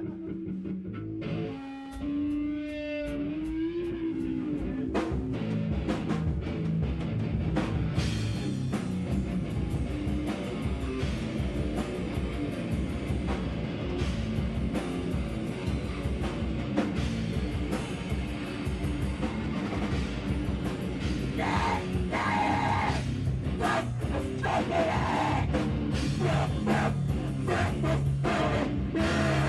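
Live noise-rock band playing loud, with distorted electric guitar and a drum kit pounding along. A wavering held tone opens it before the full band comes in about two seconds in.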